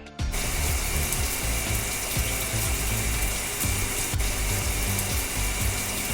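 Cartoon water-spray sound effect: a steady hiss of spraying water that starts a moment in, over background music.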